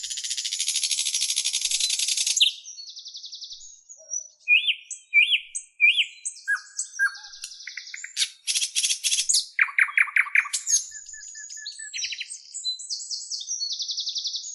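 Songbird singing a varied song. It opens with a dense buzzy trill lasting a couple of seconds, then moves through a string of separate chirps, up-slurred whistles and short rapid trills that change every second or so.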